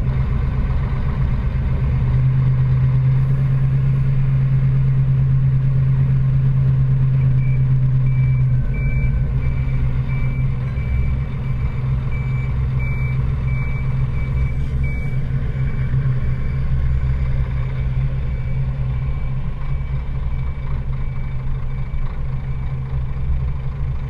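Scania lorry's engine running steadily with a low, even hum, a little stronger for a few seconds early on. A faint high steady tone joins about a third of the way in and runs on behind it.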